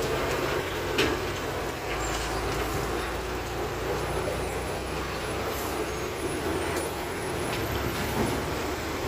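Bus on the move: steady engine and road noise, with a sharp knock about a second in and a smaller one near the end.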